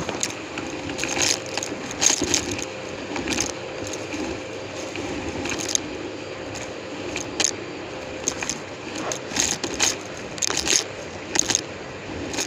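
Numatic James vacuum cleaner running with a steady hum, while debris is sucked up through the hose and tool in irregular sharp clicks and crackles.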